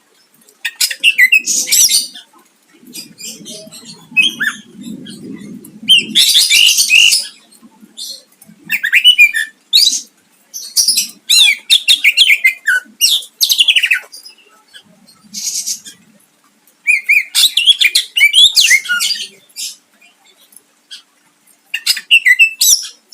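Greater green leafbird (cucak ijo) singing loud, rapid phrases of high trills and sweeping notes, broken by short pauses: a song full of mimicked phrases.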